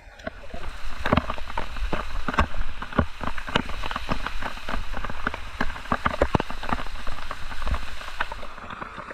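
Water spattering close to the microphone: an irregular patter of sharp drips and splashes over a low rumble.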